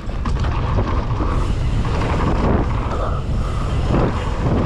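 Wind rushing and buffeting over the camera's microphone as a mountain bike picks up speed downhill, with the rumble of the bike rolling over dirt. It rises sharply at the start and then holds steady and loud.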